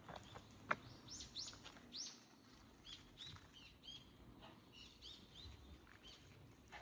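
A small bird calling a quick run of short, high chirps for several seconds. A sharp tap, like a footstep, sounds just before it starts.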